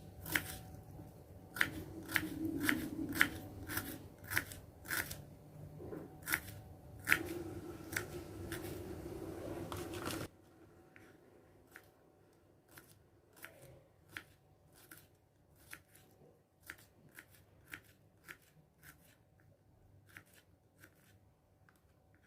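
Kitchen knife slicing shallots and garlic thinly on a cutting board: a steady run of short taps, about two to three a second, fainter in the second half.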